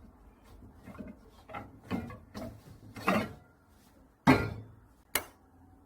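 Hands kneading and pressing crumbly cookie dough, a string of soft thuds and rustles, with a louder knock about four seconds in and a sharp click about a second later.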